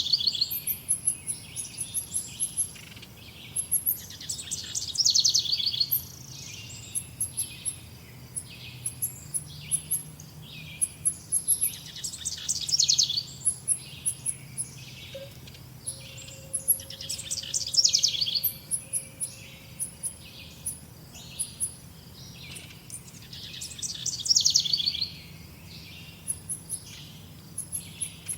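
Songbirds singing and chirping: a loud, quick trilled phrase comes back about every five seconds, while short, very high chirps go on all the time.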